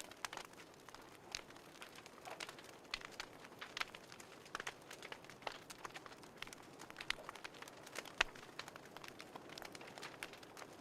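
Wood fire crackling in a fireplace: irregular pops and snaps over a soft hiss.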